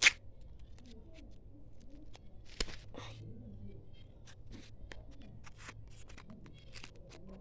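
Surprise-toy packaging being torn open and handled by hand: scattered crinkles and small clicks, with a sharp click at the start and another about two and a half seconds in.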